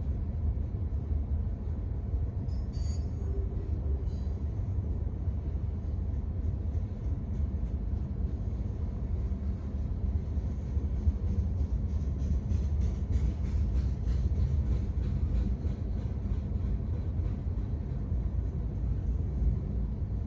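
Freight train of mixed cars rolling steadily past: a continuous low rumble with the clatter of steel wheels on the rails, a little louder about halfway through.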